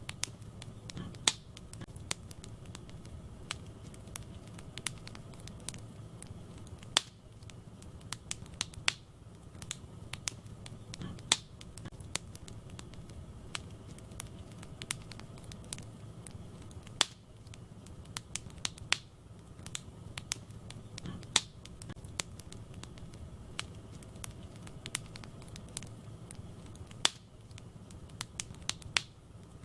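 Wood fire burning in a fireplace, crackling with irregular sharp pops and snaps over a steady low rumble of flames. The loudest pops fall in a pattern that repeats about every ten seconds.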